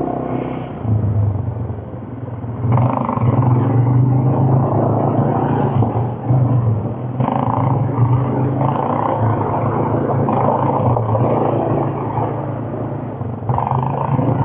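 Quad bike engine running under way, its low drone steady with the throttle opening up about three seconds in and changing again a few times.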